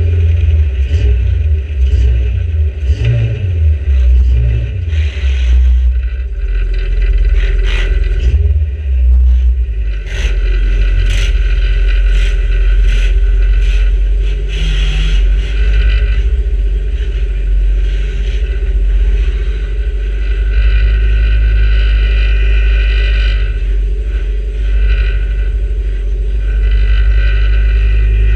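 A micro banger's engine running, heard from inside the stripped shell. In the first half there is a string of sharp knocks and clatters from the bodywork. After that the engine settles into a steady run.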